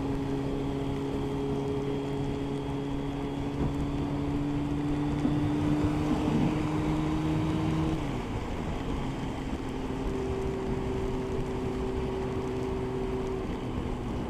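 Motorcycle engine running steadily at motorway speed under heavy wind and rain noise. The engine note creeps up in pitch, drops at about eight seconds, and carries on lower. A swell of rushing noise builds in the middle.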